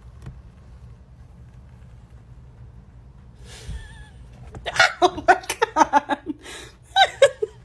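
A low steady hum, then about four seconds in a run of short, rapid, breathy vocal bursts from a person's voice, loud and closely spaced.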